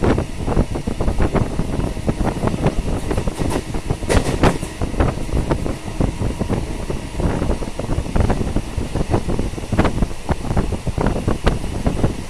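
Electric local train running on the track: carriage rattling and wheels clattering over the rails with many irregular knocks, a few sharper clanks about four seconds in, over a rush of wind.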